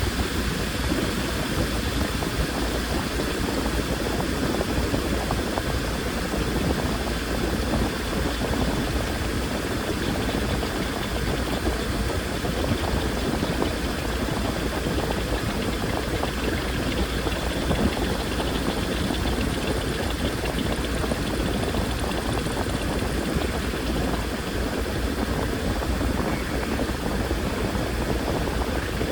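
Washing machine running: a steady motor hum and drum rumble that holds at an even level throughout.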